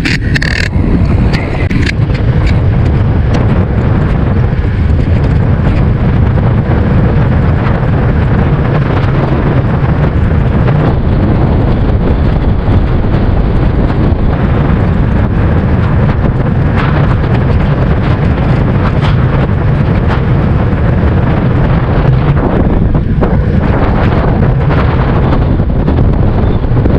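Wind buffeting the camera microphone while cycling: a loud, steady low rumble.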